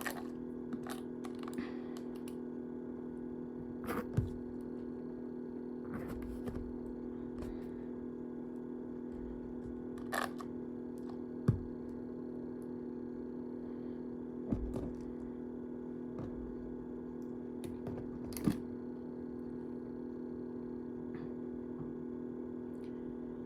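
A steady hum runs throughout, with a handful of sharp clicks and taps at irregular intervals a few seconds apart.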